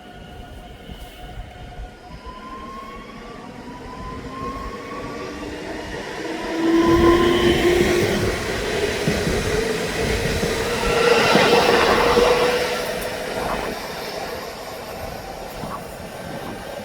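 A train running through the stop, a whine rising steadily in pitch like a train pulling away, loudest twice, about 7 and 12 seconds in, then easing off.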